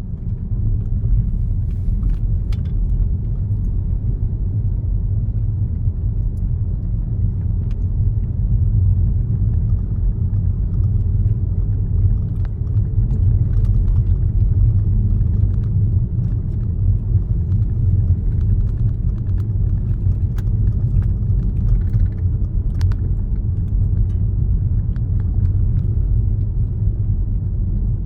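Car driving along a road: a steady low rumble of tyres and engine, with a few faint ticks and rattles.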